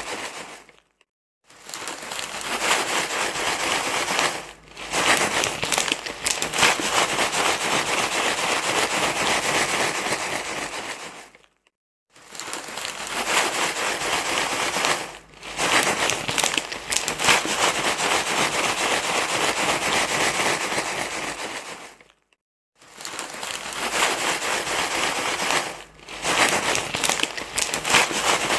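Loud, continuous crinkling and rustling, full of small crackles, like something being crumpled over and over. It comes in stretches of several seconds, cut by brief dead silences about 1, 12 and 22 seconds in and shorter dips between them.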